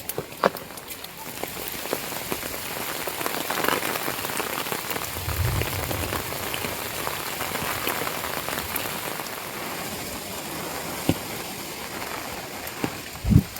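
Heavy rain falling steadily, with sharp drop clicks in the first second. A dull low thump comes shortly before the end.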